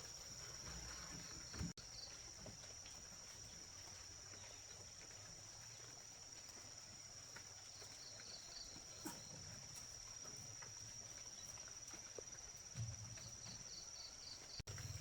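Faint rural ambience: a steady high-pitched insect drone, with short rapid trills a few times and occasional light knocks.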